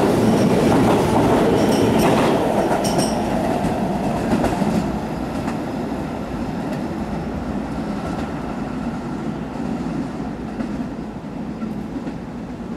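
Keihan 13000-series electric commuter train pulling out and running past, its wheels clacking over the rail joints as the last cars go by, then the running noise fading as the train draws away.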